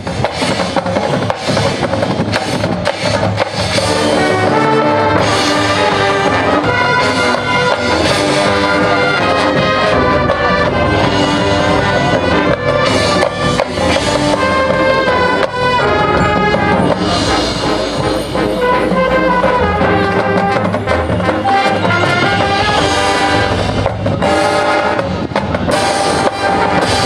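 High school marching band playing its show: brass melody over marching percussion.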